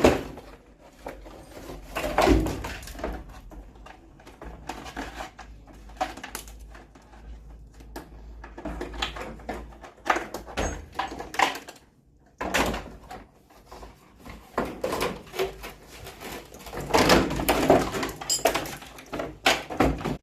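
Irregular clattering, knocking and scraping of washing machine parts being handled and pulled apart during disassembly, in clusters with a brief lull about twelve seconds in.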